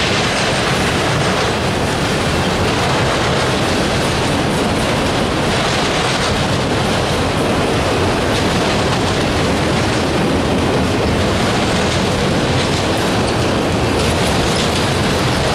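A long freight train of autorack cars rolling past close by: a steady, loud noise of steel wheels running on the rails, unchanging throughout.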